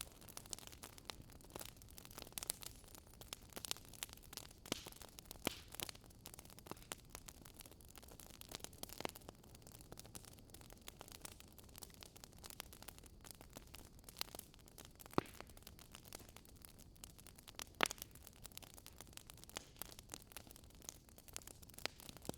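Wood fire crackling: irregular sharp pops and snaps of varying loudness over a steady low hiss, with two louder pops past the middle.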